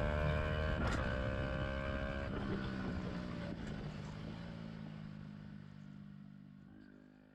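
Yamaha YZF-R125's single-cylinder four-stroke engine running at steady, low revs through an aftermarket Black Widow exhaust with the dB killer removed. It fades out steadily, with one click about a second in.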